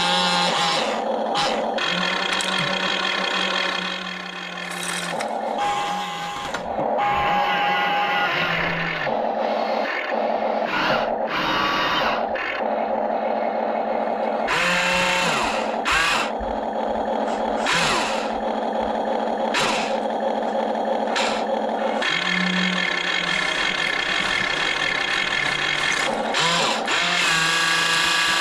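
Small electric motors of an RC excavator whining steadily as it works, the pitch shifting every few seconds, with short sharp clicks and rattles mixed in.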